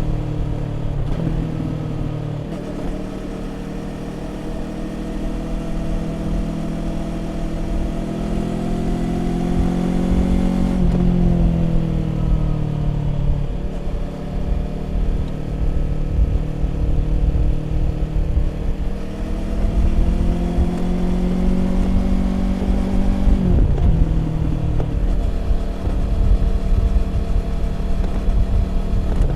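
2020 Yamaha YZF-R25's 250 cc parallel-twin engine breathing through a Prunus aftermarket exhaust, rising in pitch under acceleration. The pitch drops suddenly at two upshifts, about a third of the way in and again near the end, with a low noise of wind on the microphone underneath.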